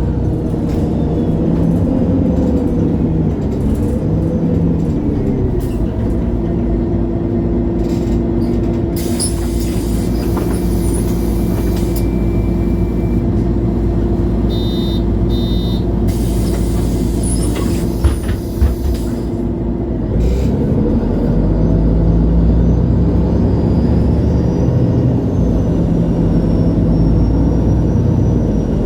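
Interior sound of a MAN Lion's City G articulated city bus at a stop. The diesel engine runs with a steady hum, compressed air hisses out twice, a short series of beeps sounds between the hisses, and a knock follows. The engine then rises in pitch as the bus pulls away.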